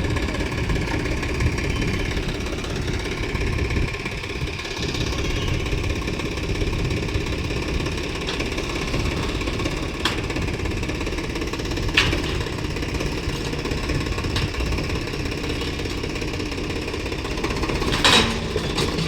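Tractor diesel engine running steadily at a low, even speed. A few sharp clicks sound about halfway through, and a short, louder noisy burst comes near the end.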